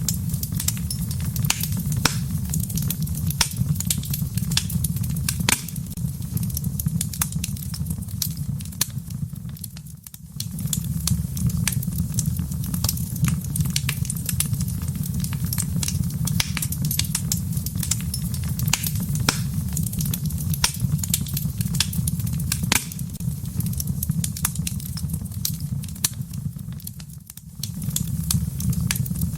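Wood fire burning in a fireplace: a steady low rumble of flames with frequent sharp crackles and pops. The sound drops away briefly twice, about ten seconds in and again near the end.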